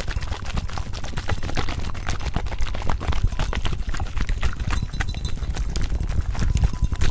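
Layered ASMR trigger sounds: a dense, irregular stream of rapid taps and clicks over a steady low rumble.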